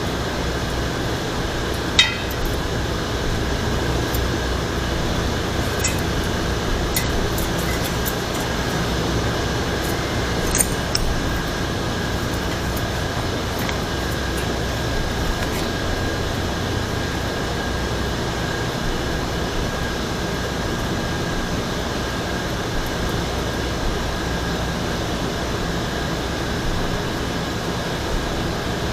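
Steady background hum, with a few light metallic clicks and clinks from hand work on a bicycle; the sharpest click comes about two seconds in, and a few smaller ones follow over the next several seconds.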